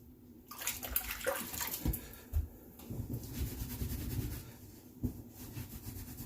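Water running and splashing from a tap into a sink, starting about half a second in and easing off about four and a half seconds in.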